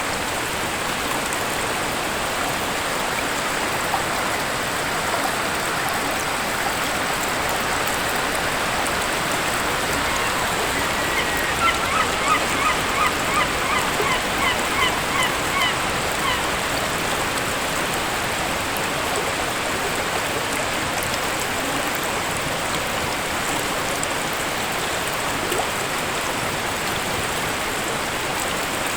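Steady rush of a waterfall. Partway through, a bird gives a quick run of about ten short, repeated calls, roughly two a second.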